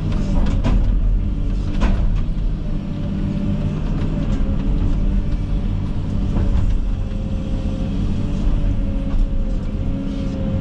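Komatsu 360 excavator running steadily under load, its diesel drone overlaid by a wavering hydraulic whine, as the bucket and thumb grab and pull saplings out of the ground. A few sharp snaps and knocks come through, about half a second, two seconds and six and a half seconds in.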